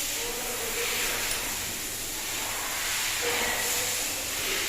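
A steady, loud hiss that starts abruptly just before and holds level, with no clear rhythm or strokes.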